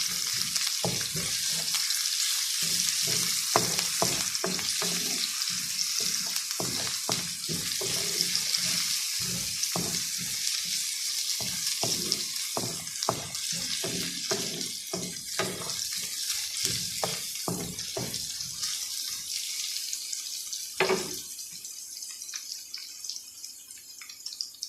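Garlic and onion sizzling in hot oil in a pan while being stirred, the utensil clicking and scraping against the pan again and again. The sizzle and stirring die down toward the end, with one louder knock shortly before.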